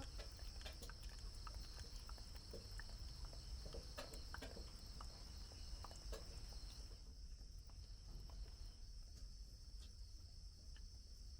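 Faint, steady high-pitched chirring of crickets or similar insects, with scattered soft ticks and a low rumble underneath.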